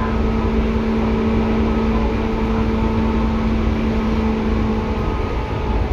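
Seibu 2000 series electric train car running, heard from the floor directly above its HB-2000 underfloor air compressor: a steady low rumble with a constant hum.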